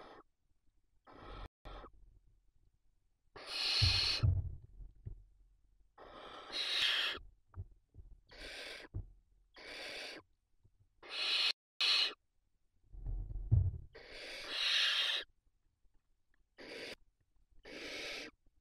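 Barn owl nestlings giving their rasping, hissing begging calls: about a dozen separate hisses at irregular intervals. Two low thumps come about 4 s and 13 s in.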